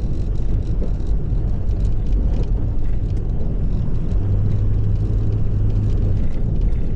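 Motor vehicle running with a steady low rumble and drone, the drone growing louder for about two seconds past the middle.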